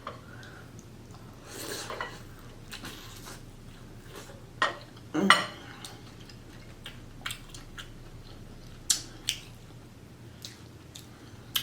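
Scattered clicks, taps and short clattering noises of someone eating a shrimp and corn seafood boil, handling the food and dish, with the loudest clatter a little after five seconds in.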